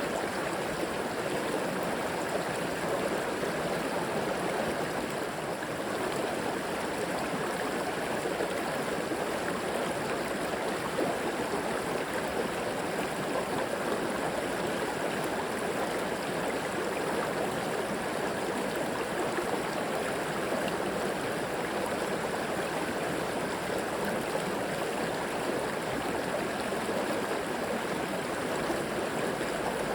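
River water flowing and gurgling over rocks, a steady rushing wash.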